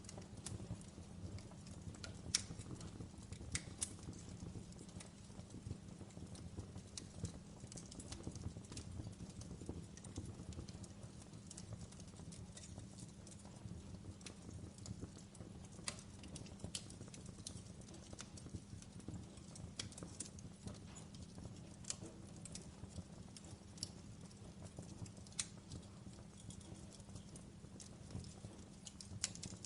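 Wood fire burning in a fireplace: a faint, steady low rumble with irregular crackles and pops, the sharpest a little over two seconds in.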